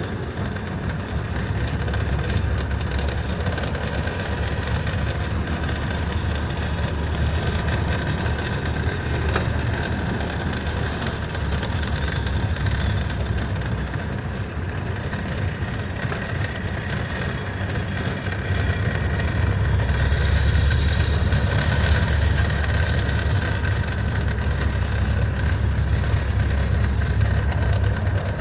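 1929 Ford Model A's four-cylinder engine running with road noise, heard from inside the car while driving, growing louder about two-thirds of the way through.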